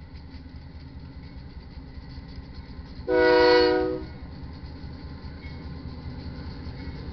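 Loaded coal train cars rolling past with a steady low rumble of wheels on rail. About three seconds in, a locomotive air horn sounds once for about a second, a chord of several notes much louder than the rumble.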